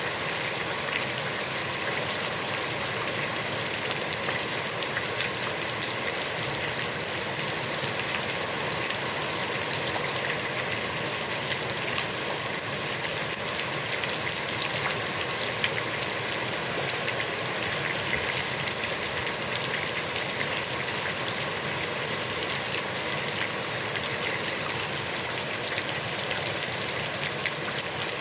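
Heavy rain falling steadily onto a pond's water surface, a dense even hiss scattered with the ticks of individual drops.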